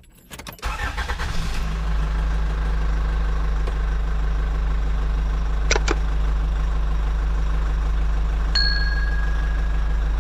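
Car engine cranking and catching about half a second in, then idling steadily. Two sharp clicks come near the middle, and a thin high tone starts near the end.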